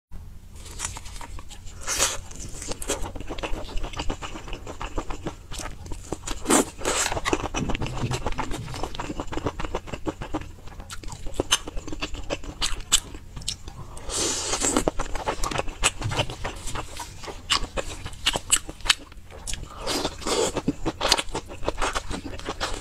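Mouth sounds of eating spicy sauced fried skewers: biting and chewing with many quick wet smacks and crunchy clicks in an irregular stream, and a longer wet slurping patch about two-thirds of the way through.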